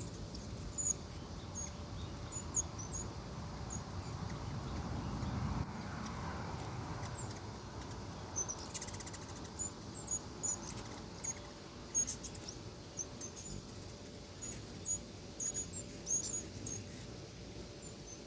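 Hummingbirds giving short, very high-pitched chip calls, scattered irregularly throughout, with a quick chattering run about eight and a half seconds in. A steady low background rumble sits underneath.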